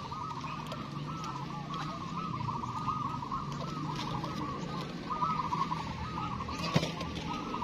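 Many zebra doves (perkutut) cooing at once, their looping coos overlapping without a break, over a low steady hum. A single sharp click about seven seconds in.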